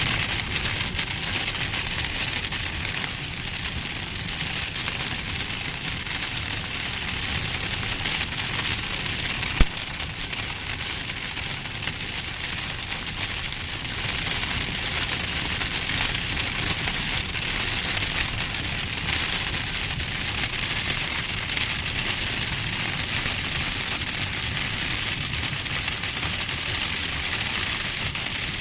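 Heavy rain pouring down steadily, with a low rumble of strong wind under it. There is a single sharp click about a third of the way in.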